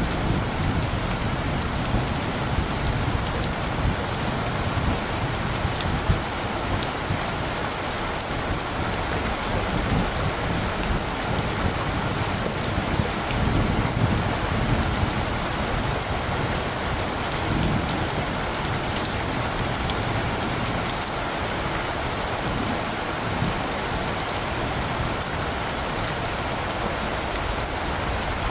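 Steady rain falling on surfaces, a dense patter of drops, with low rumbles of light thunder in the first seconds and again around the middle.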